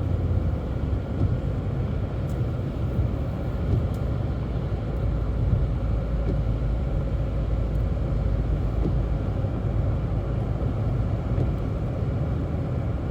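Steady road and engine rumble heard from inside a moving car at highway speed, around 75 km/h.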